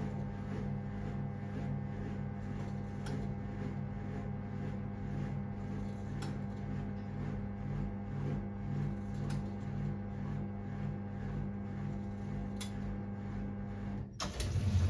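1978 Siemens WA4600 washing machine running a 30 °C colours wash: a steady motor hum with a low pulse about two to three times a second and a faint click every three seconds or so. Near the end the hum breaks off for a moment and a louder rushing, splashing sound begins.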